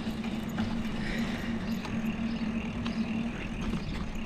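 Bicycle rolling, heard through a camera mounted on the bike: wind and road rumble under a steady low hum that stops about three seconds in, with a few light clicks.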